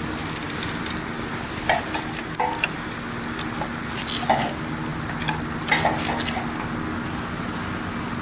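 Wood campfire burning, with a steady hiss and several sharp crackles and pops at irregular moments, a cluster of them in the middle and another near two-thirds through. A faint steady low hum runs underneath.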